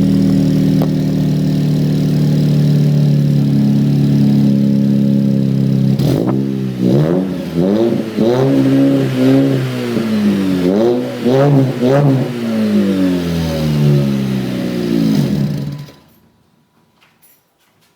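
Dodge Avenger engine through a new aftermarket exhaust, running steadily for about six seconds, then revved up and down in a string of quick blips. The sound stops abruptly near the end.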